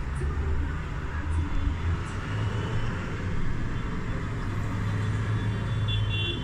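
Engines of many tractors running together: a steady low drone.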